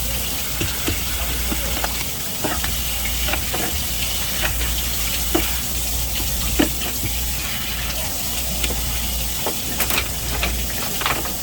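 Steady hiss of running water over a low hum, with scattered sharp clicks and knocks of knife work on a cutting board.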